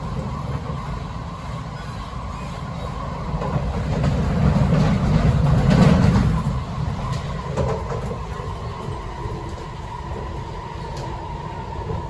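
Kawasaki-CRRC Sifang C151C MRT train running between stations, heard inside the carriage: a low wheel-and-rail rumble with a steady motor whine above it. The rumble grows louder about four seconds in, peaks around six seconds, then settles back.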